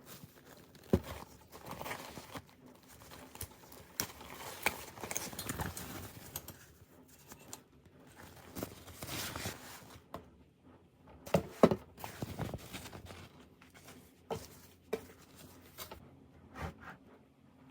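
Irregular knocks and clicks with rustling, from handling and unpacking food containers from a delivery: containers set down and packaging opened, with the loudest knocks about a second in and near twelve seconds in.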